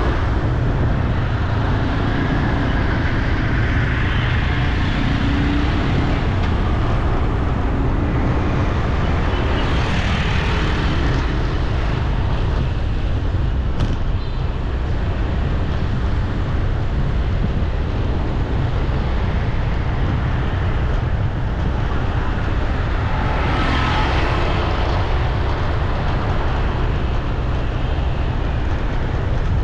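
Street traffic noise with a steady low rumble; vehicles pass by twice, about ten seconds in and again near the end.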